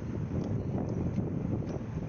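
Steady low rumbling noise like wind on the microphone, with a few faint clicks.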